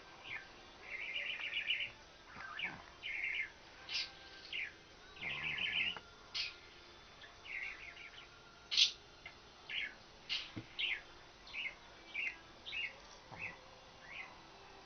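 Small birds chirping over and over: short high chirps, with a few fast trills of about a second each, near the start and again around the middle.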